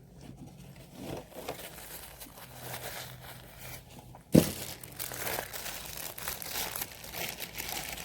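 Fast-food paper wrapping crinkling and rustling as it is handled, with one sharp thump about four seconds in.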